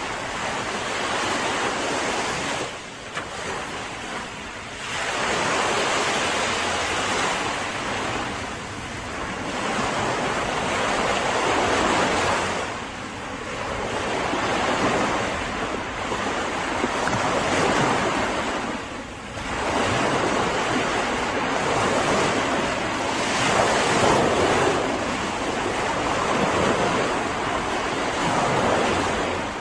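Mediterranean surf washing onto a beach, a steady rush of breaking waves that swells and ebbs every few seconds.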